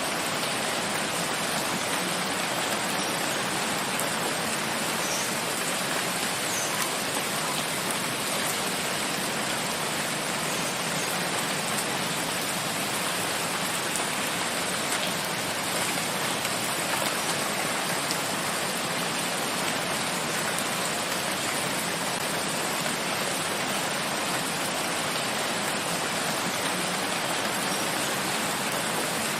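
Steady rain falling in a forest, an even hiss of many drops with no breaks.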